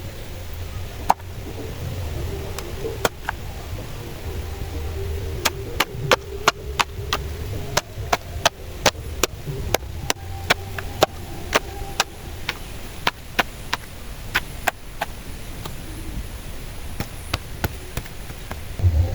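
Repeated sharp chopping strikes of a hand tool, a quick run of about two to three a second through the middle, with scattered single strikes before and after, over a low steady rumble of wind.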